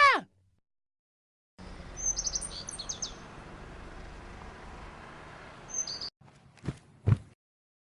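Birds chirping over a faint steady outdoor ambience, a few quick high chirps, which cuts off abruptly; then two short knocks.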